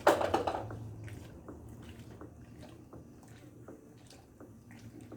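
Liquid disinfectant being poured into a container of thick soap mixture, loudest in the first second and tailing off, followed by scattered drips and small wet squishes.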